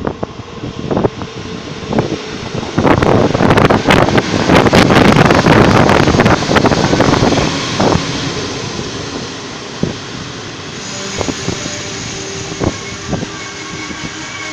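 Electric regional passenger train running past a station platform: a loud rumble and rush of wheels on rails that settles into a steadier rolling noise about halfway through. Gusts buffet the microphone in the first half, and thin, steady high whining tones from the train come in near the end.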